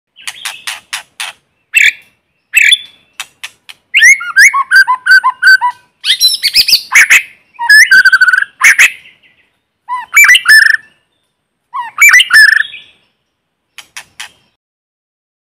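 White-rumped shama singing: a run of short phrases separated by brief pauses, mixing sharp clicking notes with rich, quickly varying whistles. The fullest phrases come in the middle, and a few faint notes near the end.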